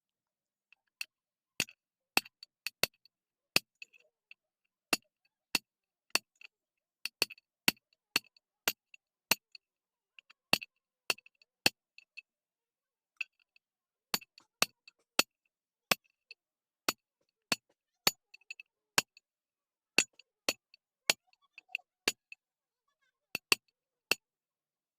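Sharp metal taps on ceiling fan parts, irregular at about one to two a second, each with a short bright ring.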